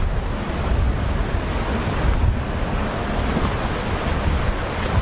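Wind buffeting the microphone over the steady rush of rough surf at an inlet.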